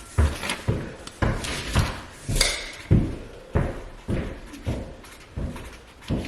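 Footsteps on the floor of a manufactured home: a steady walking rhythm of heavy thuds, a little under two a second.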